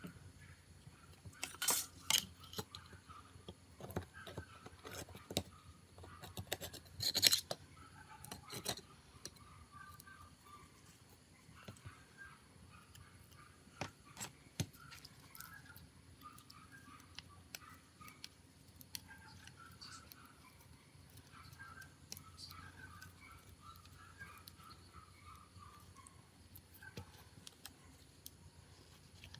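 Small clicks and scraping of hands and small tools working on a mobile phone. The sounds come in clusters in the first nine seconds, with only scattered ticks afterwards.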